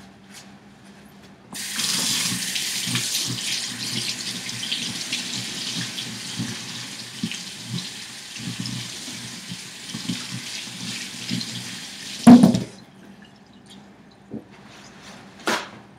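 Kitchen tap running into a sink while a potato is washed under it. The water comes on about a second and a half in and stops near the end, with a loud knock as it stops and a sharp click a few seconds later.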